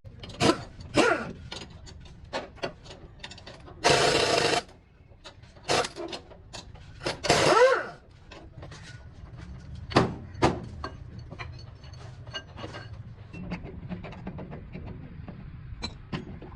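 Hand tools working on metal: irregular clinks and knocks, with two short loud rushing noises, about four and seven seconds in.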